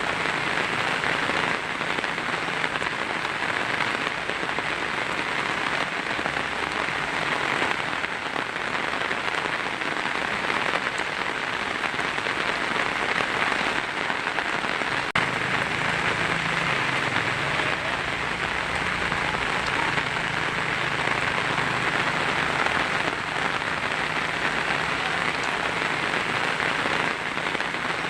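Heavy rain drumming steadily on a tin roof, a dense, even hiss with no let-up.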